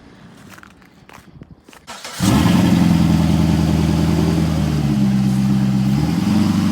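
A vehicle engine starts abruptly about two seconds in and then runs steadily, its pitch rising slightly twice toward the end.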